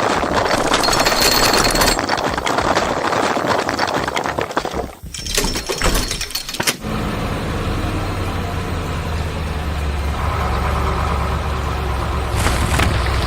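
Heavy construction-vehicle engine sound effect: a rough, noisy clatter for the first few seconds, then a steady low engine rumble from about seven seconds on.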